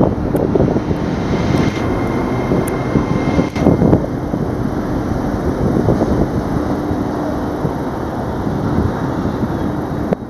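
LNER Azuma (Hitachi 800-series) train running slowly into the platform: a steady rumble of wheels on rail and traction equipment with a low hum, and a faint high whine for about two seconds starting a second and a half in.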